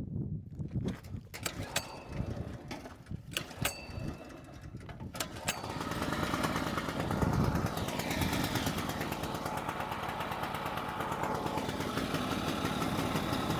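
A few sharp knocks and clicks, then, about five and a half seconds in, the single-cylinder petrol engine of a Zipper ZI-STE3000 generator comes in and runs steadily: the repaired generator is running again.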